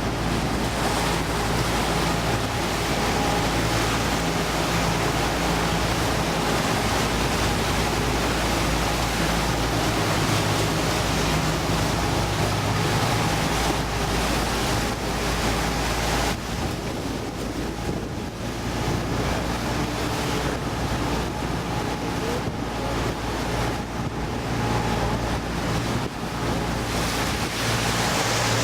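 Motorboat under way: its engine runs steadily beneath a rush of water along the hull and wind buffeting the microphone. The hiss of wind and water eases about sixteen seconds in while the engine keeps running.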